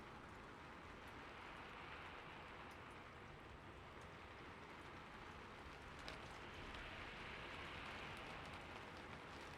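Faint, steady rain falling, an even hiss with scattered drop ticks, slightly heavier from about six seconds in.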